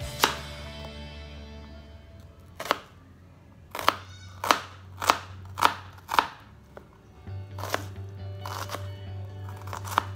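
Kitchen knife slicing a red onion on a plastic cutting board: about eleven separate cuts, each a sharp tap as the blade goes through the onion and meets the board, coming about twice a second in the middle stretch.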